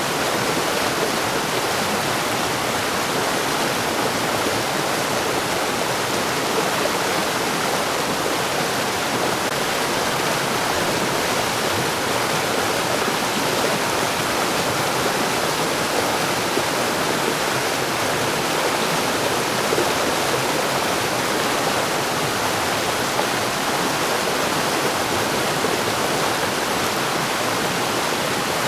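Mountain stream rushing over rocks, a steady, even rush of water with no breaks.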